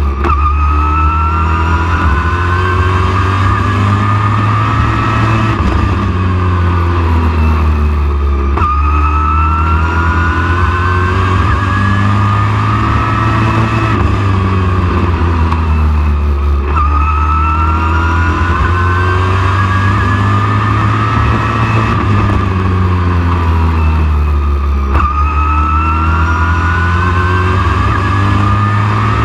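Race truck engine pulling hard, its pitch climbing for about eight seconds and then dropping sharply, four times over: full throttle down each straightaway, lifting for each turn of a short oval. A heavy steady low drone runs underneath.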